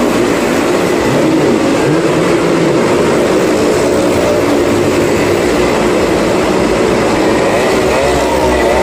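Several motorcycle engines running hard together as riders circle the wall of death, a loud, unbroken din with engine pitches sliding up and down.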